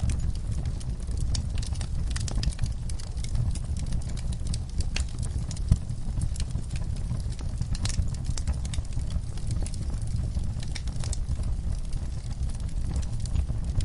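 Fire burning in a fireplace: a steady low rumble with frequent sharp crackles and pops, one louder pop about six seconds in.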